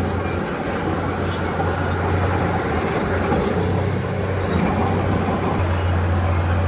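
Komatsu D31P crawler bulldozer's diesel engine running steadily under work, with short high metallic squeaks from the steel tracks scattered through it.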